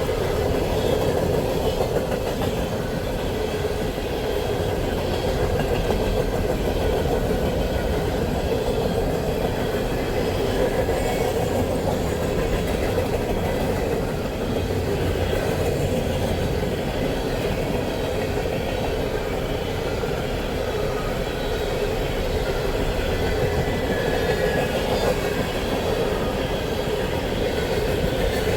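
A passing train's wheels running steadily on the rails, a continuous rumble with some clickety-clack, heard from inside a vehicle.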